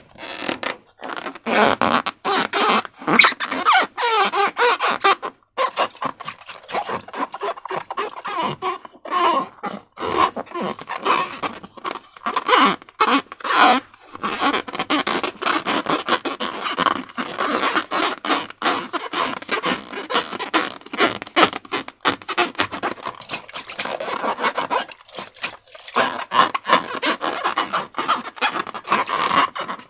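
Slime being worked by hand: a dense run of wet crackling, clicking and squelching, with a few brief pauses.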